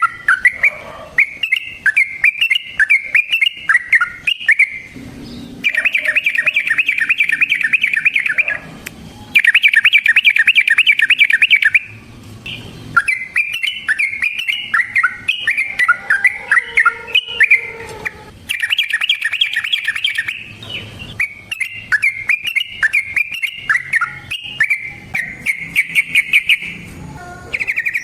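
Yellow-vented bulbul (trucukan) singing loud, bubbly chattering phrases, broken several times by long rapid trills of two to three seconds each.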